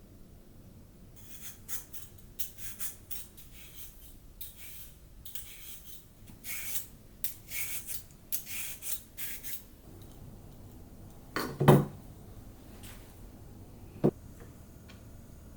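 Kitchen items being handled: a quick run of short scraping and rustling sounds, then a loud knock about three quarters of the way in and a sharper, lighter knock a couple of seconds later.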